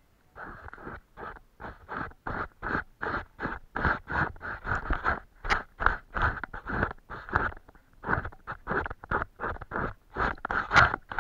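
A paintbrush dragging across the painting surface in quick, scratchy back-and-forth strokes, about three a second, with a brief pause a little past the middle.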